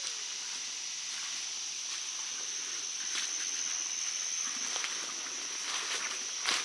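Steady, high-pitched drone of insects, with a few soft rustling footsteps through brush and leaf litter.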